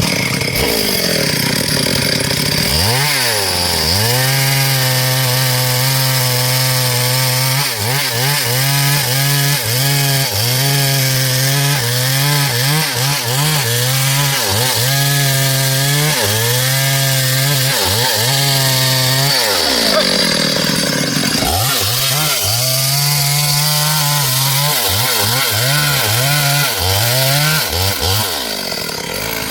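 Stihl MS 382 chainsaw cutting through a dry log, its engine pitch dipping and recovering again and again under load. About twenty seconds in it revs up briefly, free of the cut, then bogs back down into the wood.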